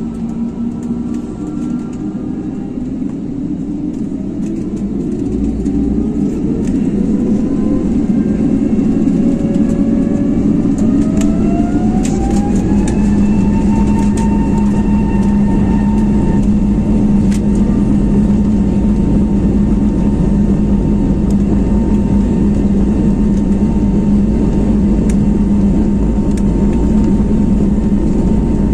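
Pratt & Whitney PW1100G geared turbofans on an Airbus A321neo spooling up: a whine rises in pitch and level over several seconds, then holds at a steady pitch over a constant low hum.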